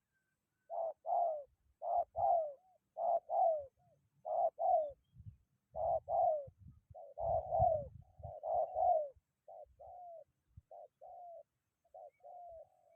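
Spotted dove cooing: a long run of repeated paired coo phrases, loud at first and fainter over the last few seconds. Low gusty rumble of wind on the microphone underneath.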